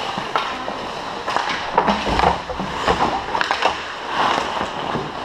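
Ice hockey play: skates scraping and carving the ice, with a scatter of sharp clacks from sticks and puck.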